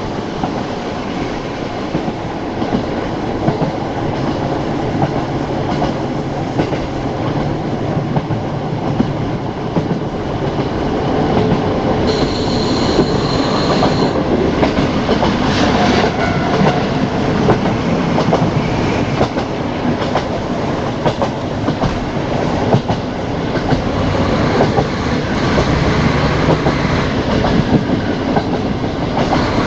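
Ride noise of a KiHa 40 diesel railcar under way: the engine hums low and the wheels click over the rail joints, loud through the open windows. About twelve seconds in, a high tone lasts for about two seconds.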